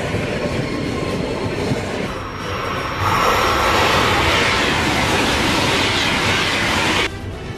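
High-speed train running on the rails with a steady rush, growing into a louder rushing hiss about three seconds in as it passes, which cuts off abruptly near the end.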